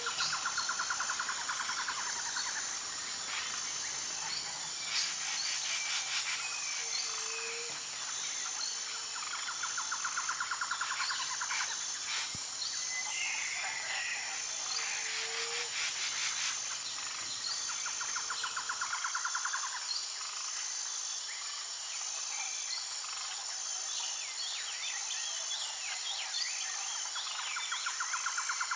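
Tropical rainforest ambience: a steady high-pitched insect drone, with a rapid pulsing trill that comes back every several seconds and scattered bird calls.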